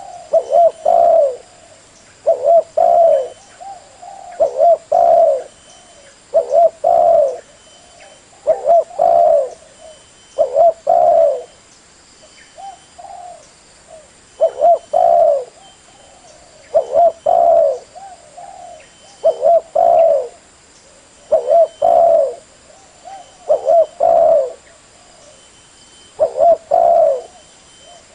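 Spotted dove cooing: short phrases of two or three low coos, repeated about every two seconds, with a quieter stretch about halfway through. It is a call used as a lure to draw in wild spotted doves.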